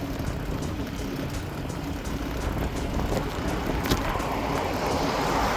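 Wind buffeting the microphone and road noise from a bicycle being ridden. There is a sharp click about four seconds in, and a hiss that grows louder near the end.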